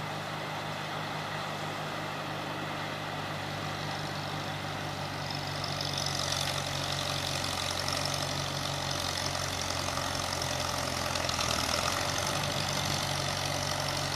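Tractor engine running steadily, growing louder about five seconds in.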